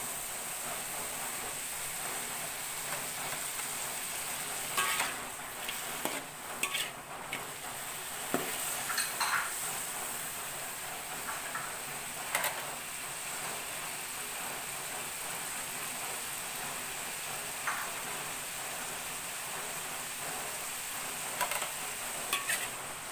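Sliced boiled bamboo shoots frying in oil in a metal wok with a steady sizzle. A spatula scrapes and clinks against the wok now and then as they are stirred.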